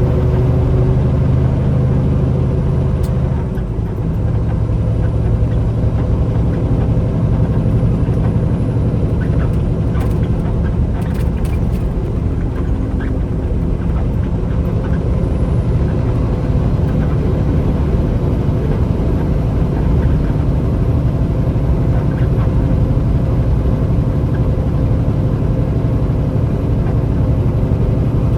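Semi-truck engine and road noise heard from inside the cab while driving, a loud steady low rumble. The engine note shifts with a brief dip about four seconds in.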